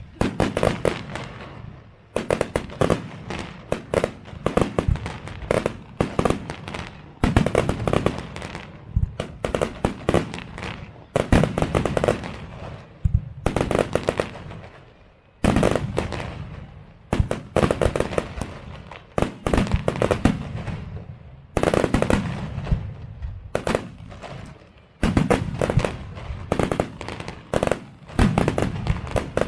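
Fireworks display: volleys of rapid bangs and crackling shell bursts, a new volley every two seconds or so, each trailing off before the next.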